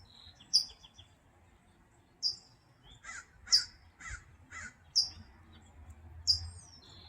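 A small songbird giving short, sharp, high-pitched 'beep' calls that slide downward, repeated every second or so. In the middle come about four harsh crow caws in quick succession, half a second apart.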